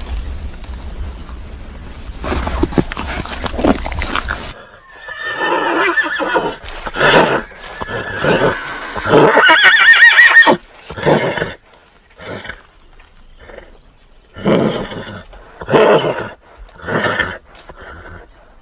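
A horse whinnying: calls with a quavering pitch, the longest and loudest about ten seconds in, followed by several short calls. Before that, a steady noisy background with a low rumble cuts off suddenly about four and a half seconds in.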